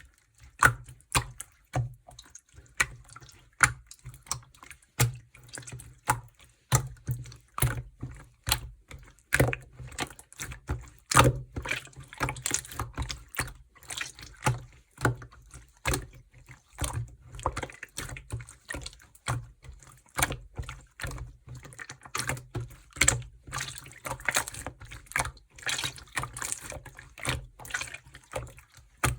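Jelly-textured slime squished and pressed by hand, giving a dense, irregular stream of wet clicks and pops.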